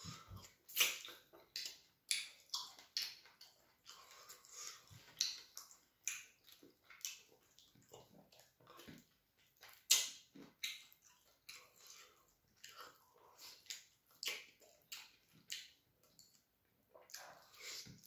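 Close-miked wet mouth sounds of a man eating fufu and chicken in light soup by hand: squishy chewing, lip smacks and slurps, heard as many short irregular wet clicks.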